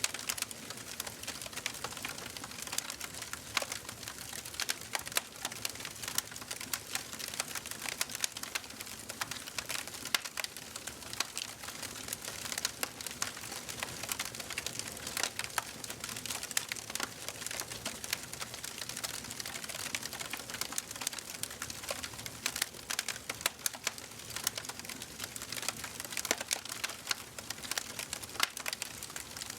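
Wood fire burning in a fireplace: dense, irregular crackling and popping over a steady low hiss of the flames.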